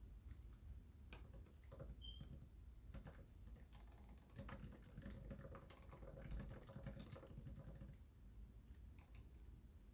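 Faint typing on a computer keyboard: irregular keystroke clicks in quick runs, thinning out after about eight seconds.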